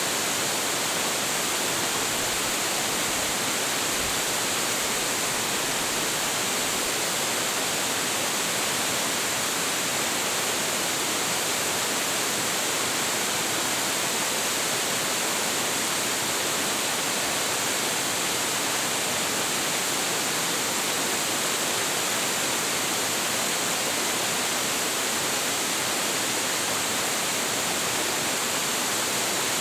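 Large waterfall with heavy flow: water crashing into its plunge pool in a steady, unbroken roar.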